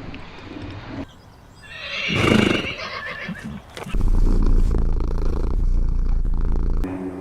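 A loud whinnying call from an animal of the horse family, about two seconds in. It is followed from about four seconds in by a loud, steady, deep rumble that cuts off near the end.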